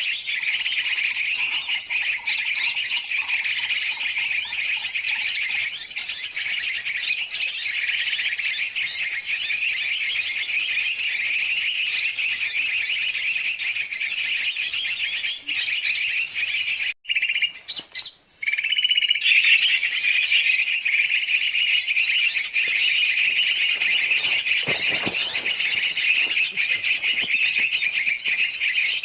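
A dense, noisy chorus of many small birds chirping and chattering together, a bird-lure mix of large and small birds' calls used to attract birds such as yellow-vented bulbuls. The chorus briefly cuts out about seventeen seconds in, then resumes.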